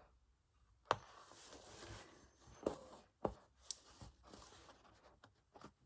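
Quiet handling sounds of hand embroidery: a needle and wool thread being woven over and under stitches rustle against the fabric, with a few light taps and clicks.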